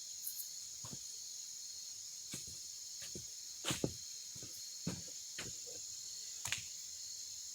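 Steady high-pitched drone of insects, likely crickets, with a handful of faint, short knocks scattered through it.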